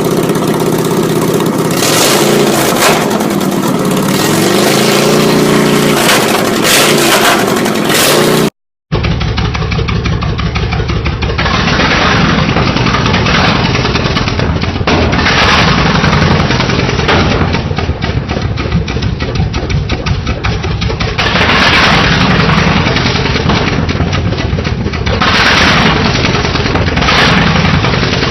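Straight-piped 23 hp Briggs & Stratton V-twin on a Snapper SPX lawn tractor, running loud through open pipes with no muffler. About five seconds in its pitch rises and falls with a rev. After a sudden break at about eight and a half seconds it runs on, the throttle swelling up and down several times.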